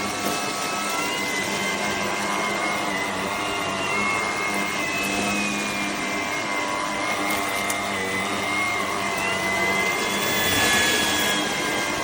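Shark cordless vacuum cleaner running, a steady motor whine and rush of suction air. It grows briefly louder and hissier about eleven seconds in.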